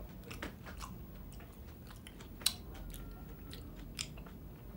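A person chewing a mouthful of stir-fried water spinach: soft mouth noises broken by scattered short clicks, the sharpest about halfway through and another near the end.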